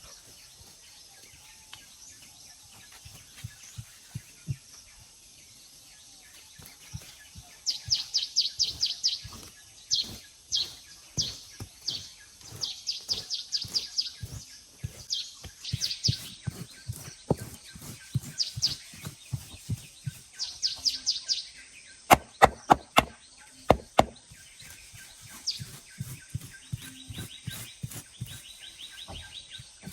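Small birds chirping in quick high trills, over a steady run of dull low thuds from work with a hand tool. A few seconds past the middle comes a cluster of about six sharp, loud knocks, and near the end a rapid high chattering.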